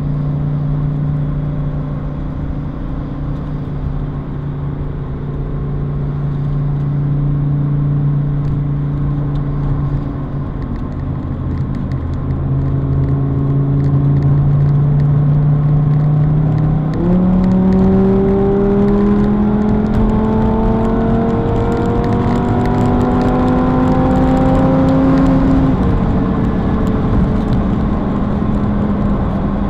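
Lamborghini Huracán STO's V10 running at motorway speed, heard from inside the cabin over tyre and road noise. A little past halfway the engine note jumps up sharply as with a downshift, climbs steadily under acceleration, then drops back with an upshift a few seconds before the end.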